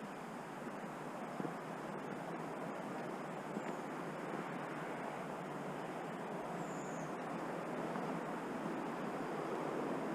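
A steady rushing outdoor noise, swelling slightly near the end. A bird gives a short, high, falling whistle twice.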